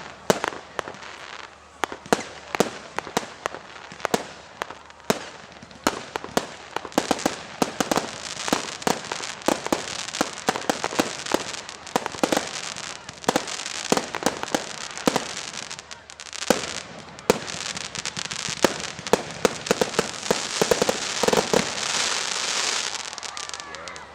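Fireworks exploding: a rapid run of sharp bangs and crackles that thickens near the end into a dense, continuous crackling barrage, then drops away.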